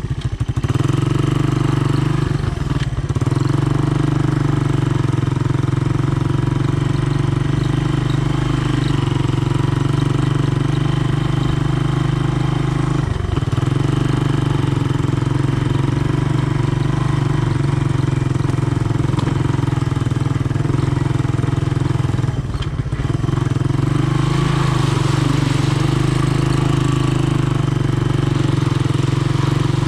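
Honda ATC 200M three-wheeler's single-cylinder engine running steadily, its note dropping briefly three times: about two seconds in, near the middle and about three-quarters through.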